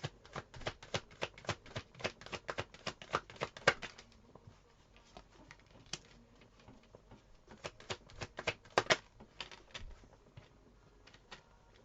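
Tarot cards being shuffled by hand: a quick run of sharp card clicks, about six a second, for roughly four seconds, then a second shorter run a few seconds later.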